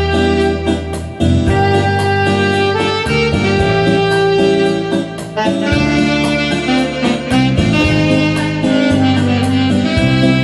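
Trumpet playing the song's melody in held notes over a backing track with bass, keyboard, guitar and a steady drum beat.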